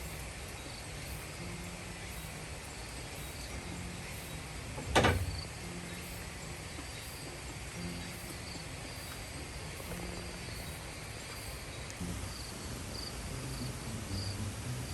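Steady outdoor background hiss with faint chirping insects. One sharp thump about five seconds in.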